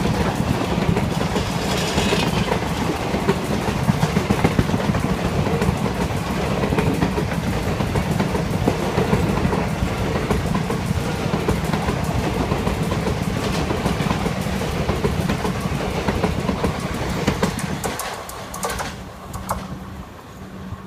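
Passenger coaches of two trains passing each other at speed, with a steady rolling roar and the wheels clattering over the rails. The sound drops away about 18 seconds in as the last coach goes by.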